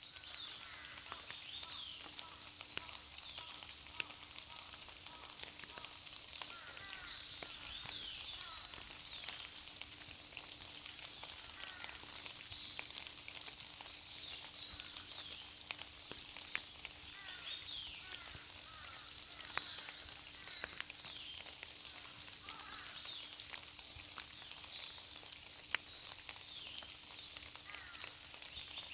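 Forest birds chirping often with short, quick falling notes over a steady hiss of light rain, with scattered sharp ticks of drips.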